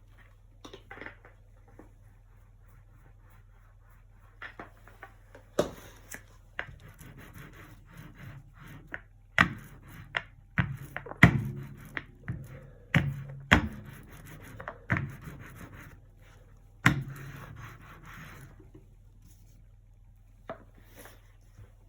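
Acrylic painting at work: a paintbrush scrubbing and scraping across the canvas, broken by about a dozen sharp taps and knocks, most of them in the middle of the stretch.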